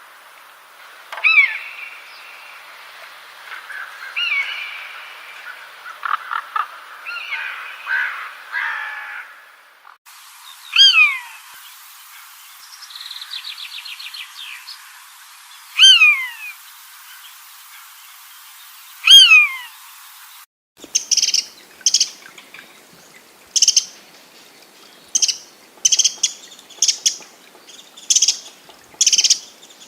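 Birds calling, in three spliced sections. First a busy mix of overlapping chirps and song. Then a loud whistle sliding downward, repeated about every four seconds, with a short trill between. Then about a second into the last section begins a quick string of sharp, high chirps.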